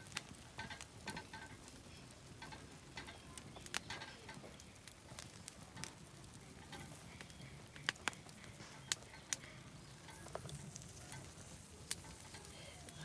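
Takoyaki batter sizzling in a takoyaki pan over a campfire, a faint steady frying hiss with scattered sharp clicks.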